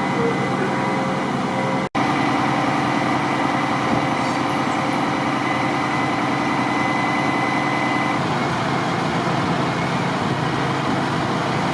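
Fire truck's engine running steadily, a continuous mechanical drone with a faint steady whine that stops about eight seconds in. The sound drops out for an instant about two seconds in.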